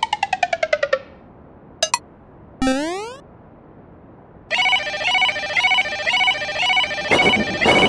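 Cartoon sound effects: a quick run of about ten falling electronic pips, a short click, then a rising zip. From about halfway, an electronic level-crossing warning alarm sounds, repeating a two-note pattern several times a second. A dense droning sound joins it near the end.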